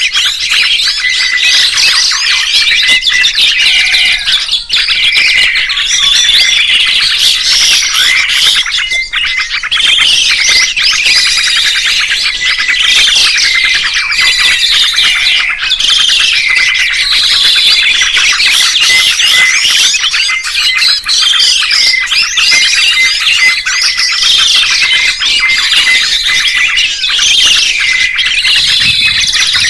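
A loud, dense chorus of songbirds chirping and singing, with many calls overlapping continuously.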